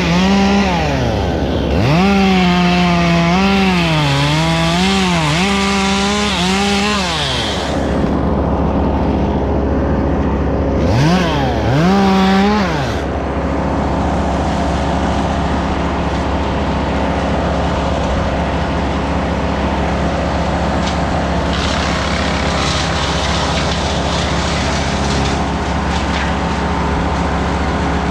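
Chainsaw revving up and down repeatedly for the first several seconds, then revving again briefly near the middle, over the steady hum of another engine running underneath. The steady engine hum is all that remains in the second half.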